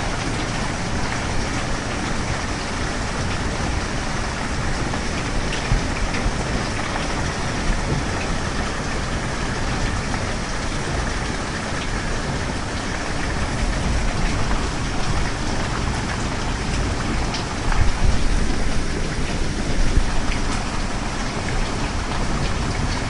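Steady heavy rain falling, an even hiss with scattered sharp drop ticks. Two brief louder low rumbles swell up near the end.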